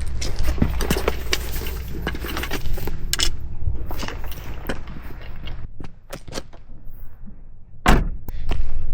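Rustling and handling noise with a rapid run of sharp clicks and knocks over a low rumble, and one louder knock about eight seconds in.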